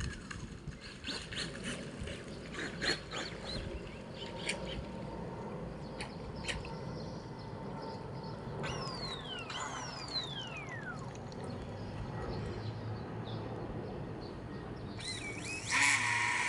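Quiet outdoor ambience with scattered faint clicks and bird calls, including two falling whistles about two-thirds of the way through. Near the end a loud, steady high-pitched whine starts.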